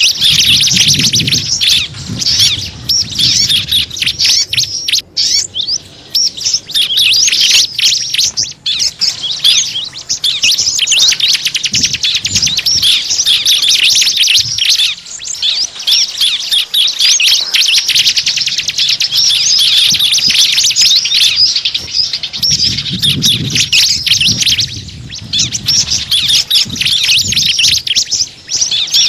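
Small birds twittering densely: a rapid, unbroken stream of high chirps and tweets. It is a lure call played to draw small birds in.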